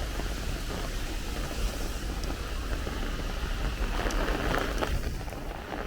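Heavy downpour of a thunderstorm squall line, a steady rushing hiss of rain, with gusty wind buffeting the microphone in a low rumble. It swells slightly about four seconds in.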